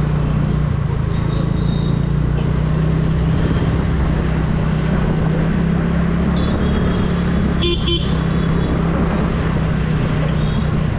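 TVS Ntorq 125 scooter's single-cylinder engine running steadily under way, with road noise over it. Traffic horns beep now and then, the loudest a quick double beep a little under two-thirds of the way through.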